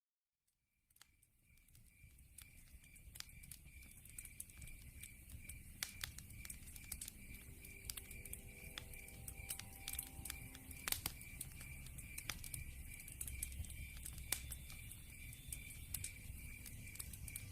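Log fire crackling with sharp pops over a low rumble, with a cricket-like insect chirping steadily about three times a second. The sound starts after a brief silence and fades in over the first couple of seconds.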